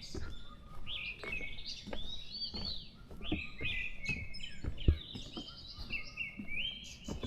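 Several forest birds chirping and calling over one another in short, quick whistled notes. There is one sharp knock about five seconds in.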